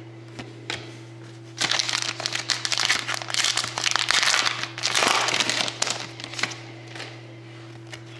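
Trading-card pack wrapper crinkling as it is torn open, starting about one and a half seconds in and lasting about four seconds, with a few single light clicks before and after.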